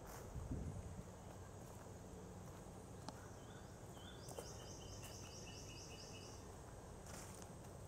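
A bird singing a quick run of about eight repeated chirps, about four seconds in, over faint steady outdoor background noise, with a soft low thump near the start.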